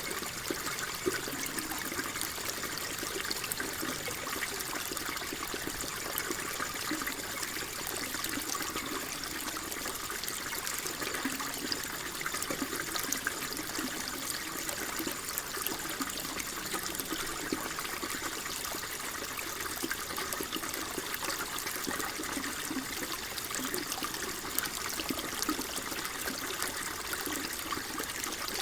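Water flowing and trickling steadily, a continuous babbling wash with fine splashes.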